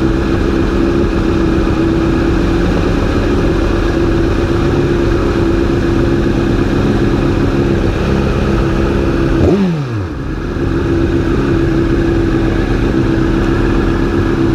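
Honda CBR1000RR inline-four engine idling steadily. About nine and a half seconds in it gives a short rev that falls away quickly, dips briefly, then settles back to idle.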